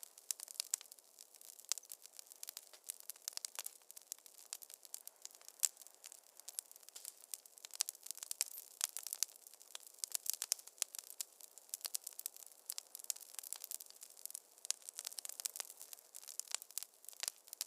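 Wood fire crackling in a fireplace: many irregular sharp pops and snaps over a soft hiss.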